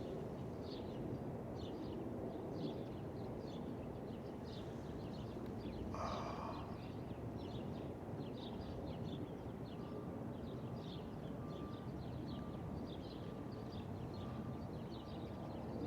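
Outdoor ambience of small birds chirping over a steady low background noise. There is a brief rustle about six seconds in. In the second half a faint short tone repeats about twice a second.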